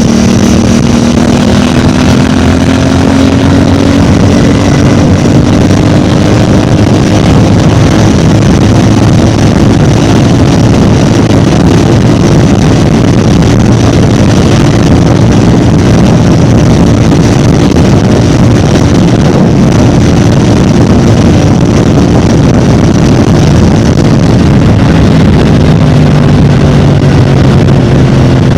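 CFMOTO 450MT's parallel-twin engine through its stock exhaust, running steadily under way with a dense rush of noise around it. The engine note holds roughly level and drops in pitch near the end.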